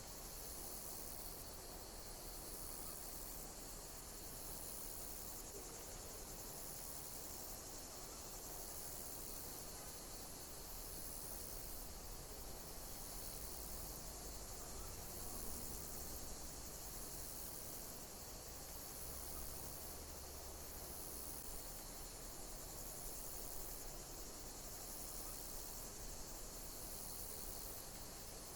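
Insects chirping high and shrill, repeating about once a second over a constant background hiss.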